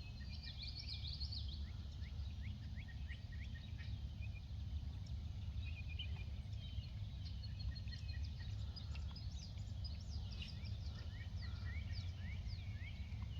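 Small birds chirping and twittering repeatedly over a steady low background rumble.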